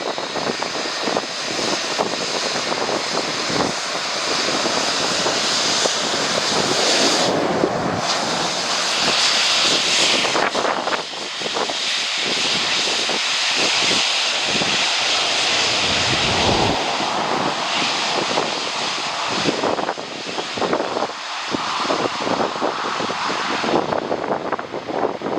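Jet airliner passing on landing, its engine noise swelling to a peak over several seconds and then fading away. Wind buffets the microphone.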